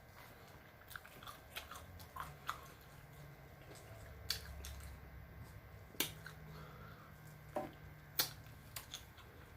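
Close-miked chewing of chicken wings: faint, irregular mouth clicks and smacks, with a few sharper ones about six and eight seconds in.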